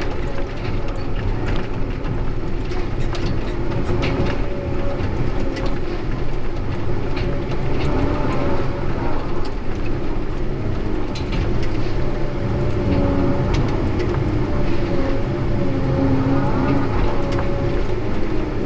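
Heavy diesel engine of logging equipment running steadily, with a wavering whine and scattered clicks and knocks.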